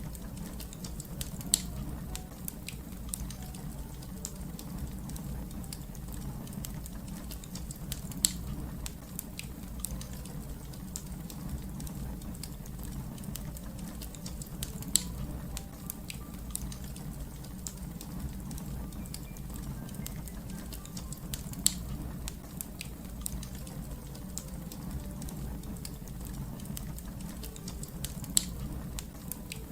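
Fire crackling in a fireplace: a steady low rumble of flames under many small crackles, with a sharper pop about every six or seven seconds.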